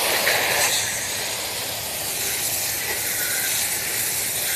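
Garden hose spray nozzle jetting water onto a car wheel and tyre, a steady hiss of spray rinsing off the wheel cleaner and loosened dirt.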